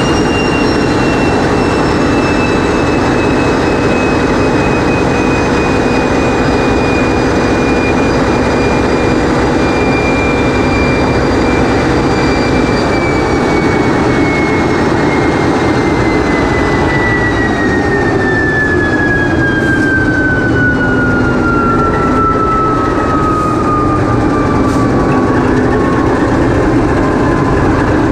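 TEP70 diesel locomotive's V16 diesel engine running loud and steady, heard inside its engine room. A high whine over the engine noise falls slowly in pitch, then drops faster through the second half as the engine comes down in speed.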